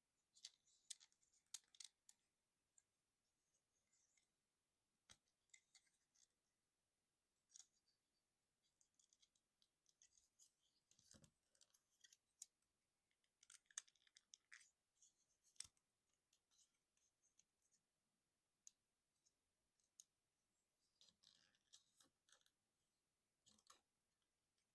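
Faint clicks and scrapes of a Transformers Titans Return Misfire plastic action figure being handled, its jointed parts turned and snapped into place during transformation. The sound is a string of scattered sharp clicks with short bursts of scratching.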